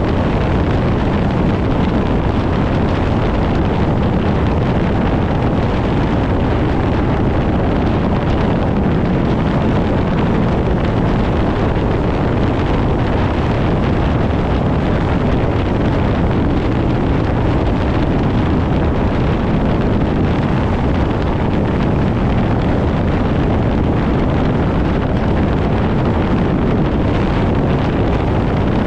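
Steady, unbroken vehicle running noise, heaviest in the low end, with wind buffeting the microphone.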